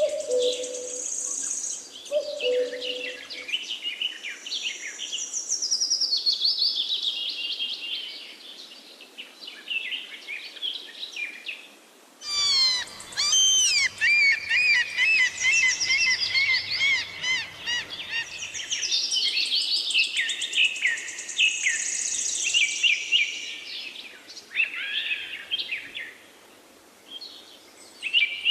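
Several songbirds singing over one another, a dense mix of clear whistles and rapid trills. About twelve seconds in, it cuts abruptly to another birdsong recording with a faint low hum beneath it for several seconds.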